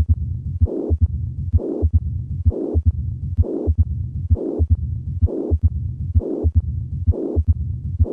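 Recorded heart sounds of combined mitral stenosis and regurgitation, beating a little faster than once a second: a continuous low rumble with a louder, brighter murmur on each beat.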